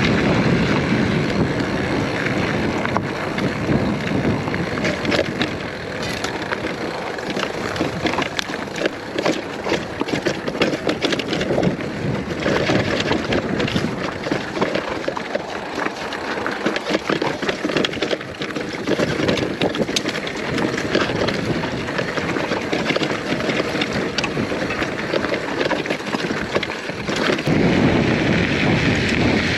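Wind buffeting the microphone over the ride noise of an electric mountain bike on a rough trail, with many small clicks and rattles throughout.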